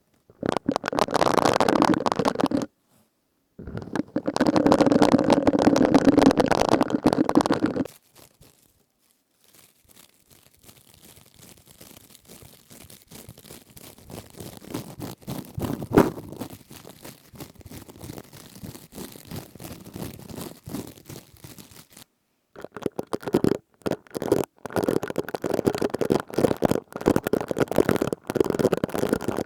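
Close-miked crisp crackling from something being rubbed and squeezed, in several separate passages that start and stop abruptly, with a quieter scratchy stretch in the middle.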